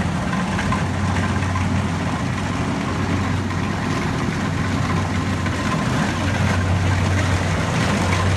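Rice combine harvester's engine running at a steady low hum, with a faint steady whine above it.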